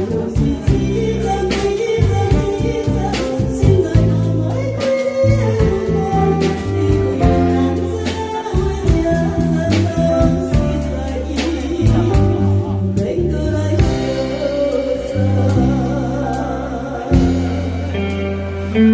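A singer performs a Taiwanese enka-style song over an instrumental accompaniment with a steady beat.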